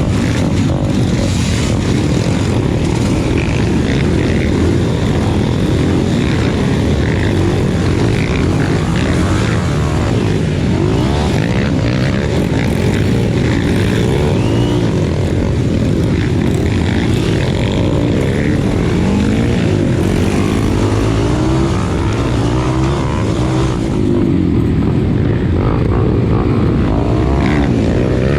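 Enduro motorcycle engine running under load, its pitch rising and falling continuously as the throttle is worked.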